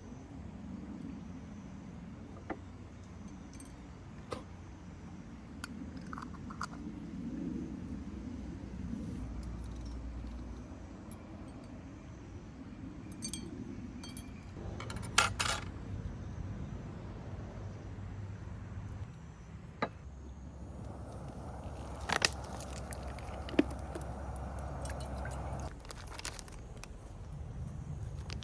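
Scattered small clinks and knocks of glass and metal being handled, the loudest cluster about halfway through, over a low steady background rumble.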